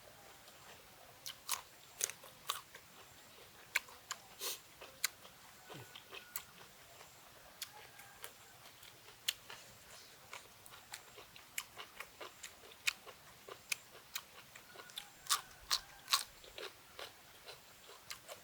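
A person chewing crunchy food close to the microphone: irregular crisp crunches and bites, some sharper and louder than others.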